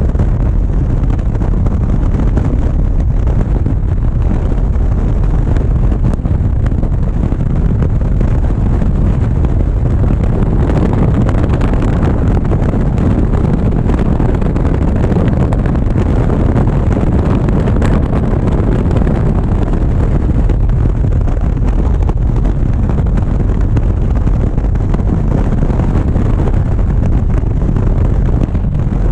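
Steady wind rushing over the microphone of a GoPro on a moving motorcycle, with the motorcycle running underneath at a constant speed.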